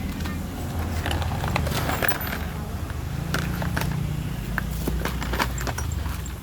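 Parcel contents being handled during unboxing: scattered small clicks and plastic crinkling, over a low steady hum.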